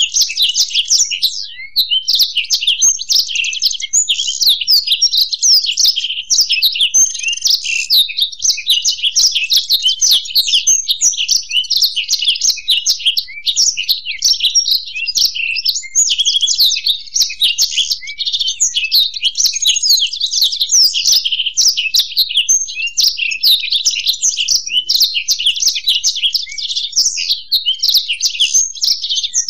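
Blackthroat (black-throated canary) and European goldfinch singing together: a continuous, fast, high twittering song with no pauses.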